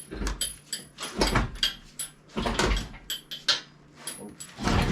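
Engine hoist being rolled back with an engine hanging from it: irregular metal clanks, clicks and rattles with thin ringing, and a few low rumbles.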